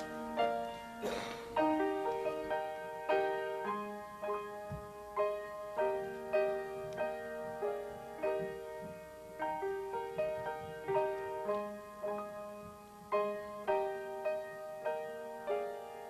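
Piano playing a slow, gentle piece, with chords struck about once a second, each fading before the next.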